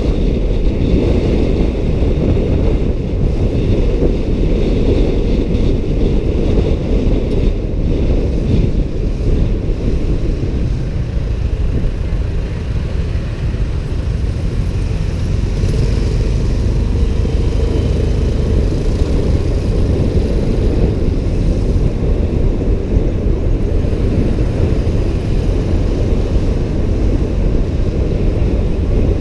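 Steady wind rumble buffeting the microphone of a moving motorbike, with road and traffic rumble underneath.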